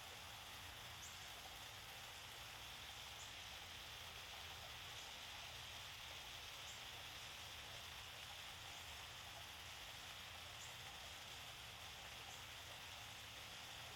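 Small waterfall splashing: a faint, steady rush of falling water.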